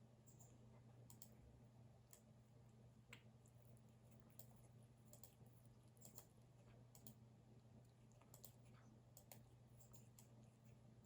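Faint, scattered single clicks from a computer keyboard and mouse, irregular at roughly one a second rather than steady typing, over a low steady hum.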